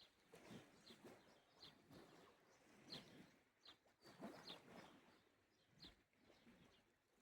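Faint small waves washing on the shore, rising and falling softly, with a bird giving short falling chirps about once a second.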